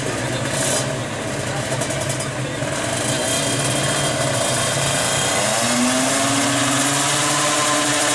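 A two-stroke 155cc drag-bike engine running at steady revs, then revved up about five and a half seconds in and held at the higher pitch.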